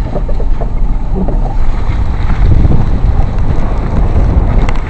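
Pickup truck driving through mud and flood water: a steady low rumble with sloshing and splashing, and heavy wind buffeting on the microphone.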